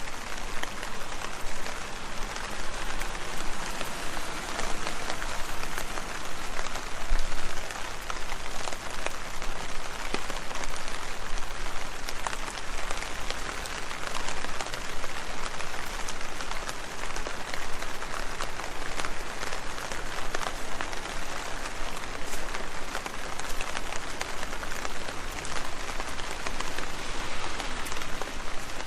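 Steady rain falling and pattering on leaves, a dense hiss scattered with the sharp ticks of single drops striking.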